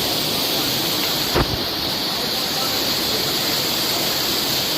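Waterfall rushing: a loud, steady wash of falling water, with one brief thump about a second and a half in.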